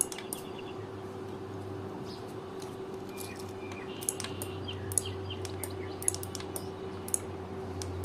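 Faint small-bird chirps with scattered sharp clicks over a steady low hum.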